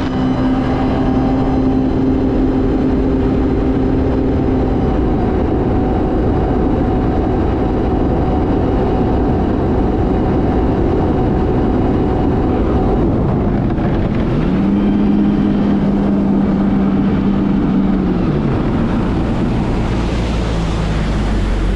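Supercharged four-cylinder engine of a 2022 Kawasaki Ultra 310 jet ski at full throttle on a top-speed run, its pitch held steady after revving up. On the factory ECU, boost peaks at about 14.5 psi and is pulled back to about 11.5 psi, holding speed near 106 km/h.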